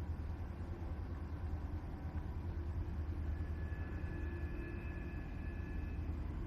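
Diesel freight locomotive engine rumbling steadily, a low drone, with a faint high whine joining for a few seconds in the second half.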